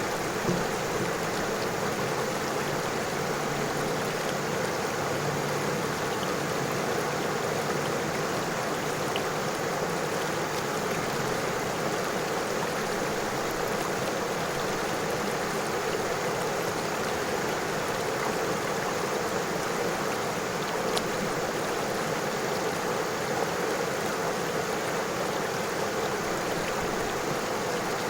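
River water flowing steadily over stones, an even rushing murmur with a few faint splashes.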